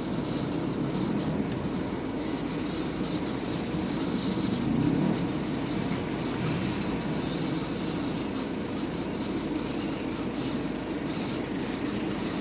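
Car engine idling, heard from inside the cabin as a steady low drone.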